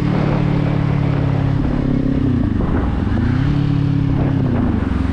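Kawasaki Z400's parallel-twin engine and exhaust under way. It runs at steady revs, then the revs dip and climb back twice: once about halfway through and again near the end.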